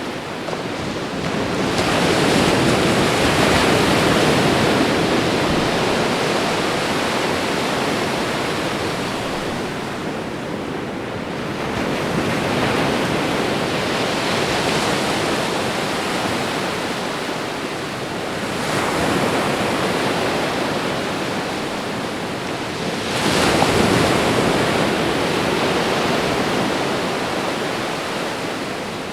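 Ocean surf: waves breaking and washing up the shore, the noise swelling and easing in slow surges several seconds apart, the sharpest surge coming about three-quarters of the way through.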